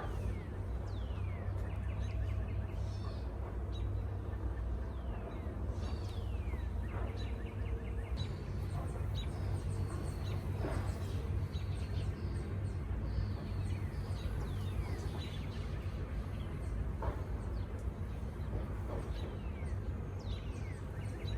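Birds calling repeatedly with short whistles that slide down in pitch, over a steady low rumble.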